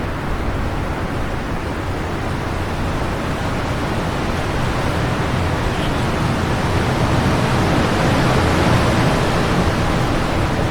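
Wind blowing steadily, a rushing noise that swells into a stronger gust about two thirds of the way through.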